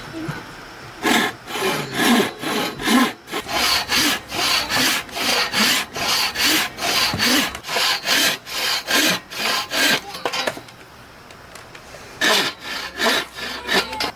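Handsaw cutting wood in quick back-and-forth strokes, about two a second. The sawing stops about ten seconds in, then two more strokes come near the end.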